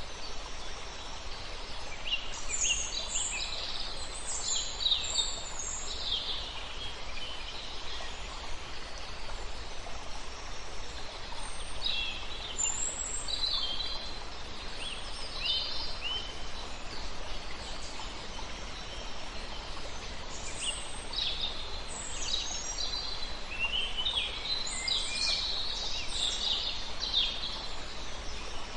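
Songbirds singing in several clusters of quick, high chirps and trills, over the steady rush of a river.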